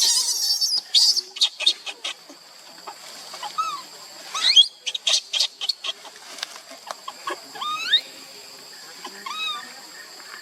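A young monkey giving a string of short, squeaky calls that rise and bend in pitch, mixed with sharp clicks and rustles.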